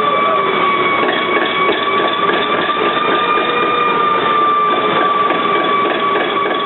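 ALCO 539T turbocharged six-cylinder diesel of a locomotive switcher running steadily, with a steady high-pitched whine over the engine noise.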